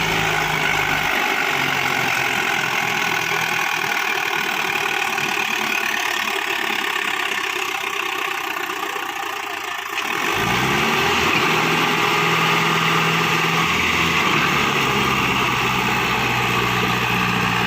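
Diesel tractor engine running. About ten seconds in its revs climb and it gets louder, then it holds steady at the higher speed.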